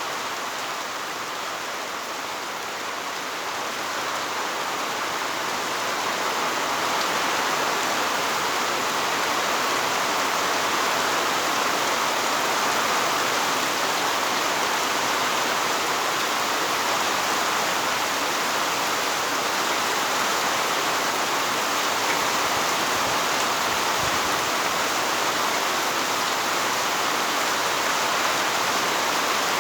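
Heavy rain falling steadily in a dense, even downpour. It grows a little louder a few seconds in and then holds.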